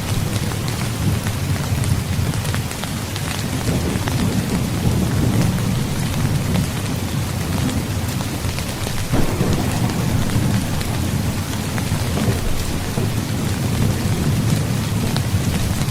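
Heavy, steady rainfall with a continuous low rumble of thunder beneath it. The rumble swells slightly about nine seconds in.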